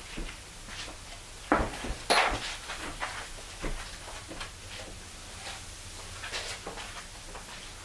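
Scattered knocks and clicks of hardware being handled while fitting an outboard motor's mounting bolts. Two louder knocks come about one and a half and two seconds in.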